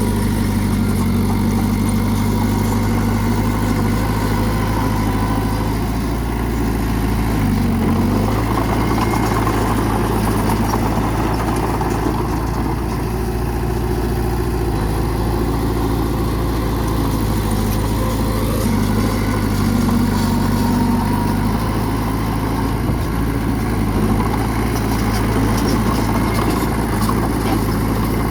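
Bulldozer's diesel engine running steadily, its note dipping briefly about eight seconds in.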